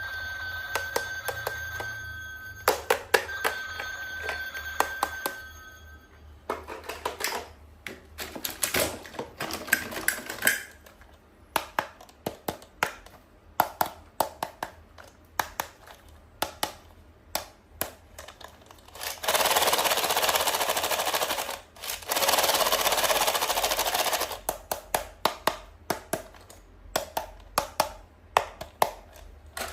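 Hands unboxing toys with clicks and taps of plastic throughout. For the first few seconds a ringing tone sounds, and about two-thirds of the way through come two spells of rustling packaging, each a couple of seconds long.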